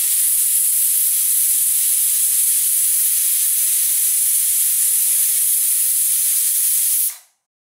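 Pressure cooker letting off steam through its whistle weight in one loud, steady hiss that stops abruptly near the end: the single whistle that marks the chicken cooked under pressure.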